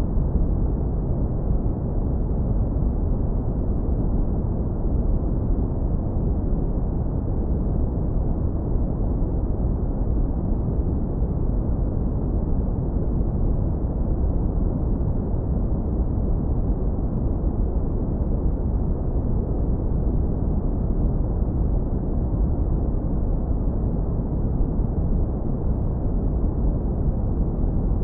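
Synthetic brown noise, low-pass filtered hard so that nearly all of it sits in the deep bass: a steady, even rumble that does not change.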